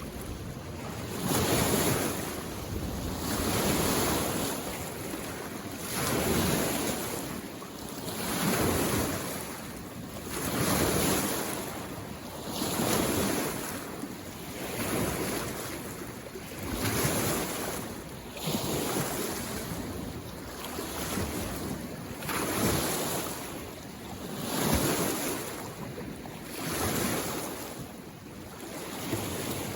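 Small waves washing onto a mountain lake shore, each one swelling and fading about every two seconds.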